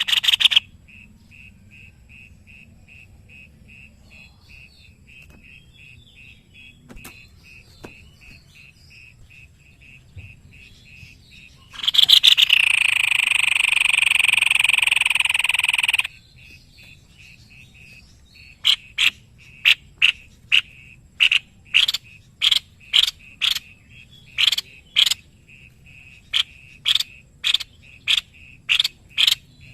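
Animal calls: a faint, fast, steady pulsing throughout. About twelve seconds in comes a loud buzzy trill lasting about four seconds, and from about two-thirds of the way in, loud sharp notes repeat about twice a second.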